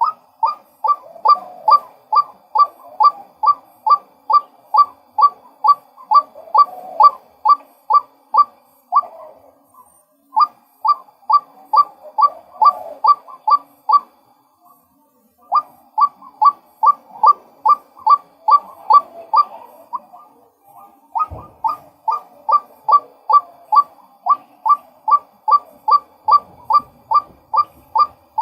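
Male white-breasted waterhen calling: a long monotonous series of sharp, clipped notes, about two a second, broken by a few short pauses. A single low thump sounds about three-quarters of the way through.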